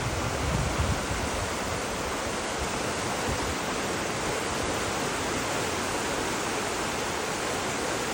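Floodwater of the River Chenab rushing, a steady, even noise, with some low rumbling in the first second.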